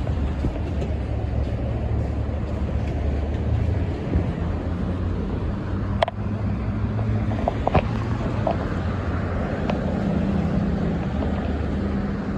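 A heavy truck engine running steadily amid road noise, with a few sharp clicks about halfway through.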